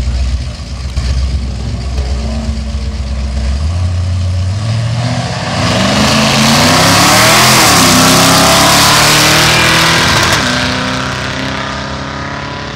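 Two drag-racing cars, a 1966 Ford Fairlane and a Chevrolet El Camino, idling at the start line, then revving and launching hard, their engines climbing in pitch as they accelerate away. The sound peaks a few seconds after the launch and fades as the cars run off down the strip.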